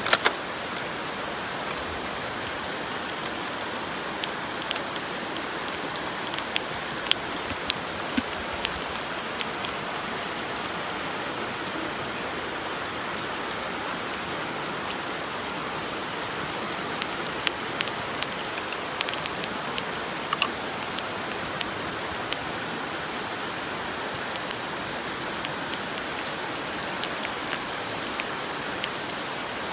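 Butter and olive oil sizzling in a frying pan over a campfire: a steady hiss with scattered sharp pops and spits.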